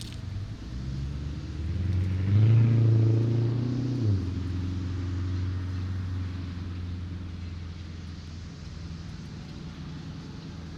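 A car driving past on a road, its engine and tyres building to a peak a couple of seconds in, then fading away slowly.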